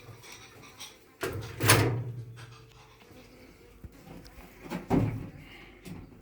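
Handling noise: a loud knock with scraping about a second in, and another knock near five seconds.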